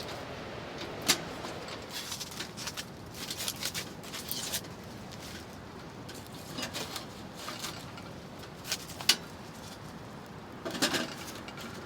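Split firewood being loaded into a hot-tent wood stove: scattered knocks, clunks and scrapes of logs against the firebox, the loudest about a second in and about nine seconds in. Strong wind blows on the tent throughout.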